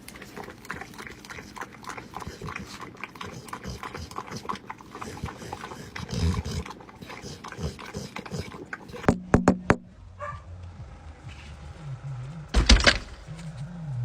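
A dog licking and lapping at a pup cup: a quick, irregular run of small wet clicks, broken by a few sharper knocks. Near the end a low, wavering animal sound follows.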